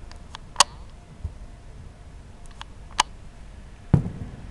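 Distant fireworks: sharp cracks about half a second in and at three seconds, then a deeper boom near the end that rumbles away.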